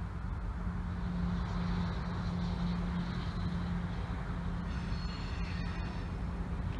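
Steady low rumble and hum of an approaching freight train's diesel locomotives, heard from trackside, with a brief faint high-pitched ringing about five seconds in.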